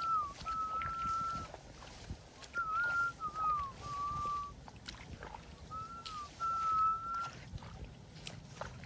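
A person whistling clear, steady notes in three similar phrases, each a short falling note followed by a longer held one, with pauses between them.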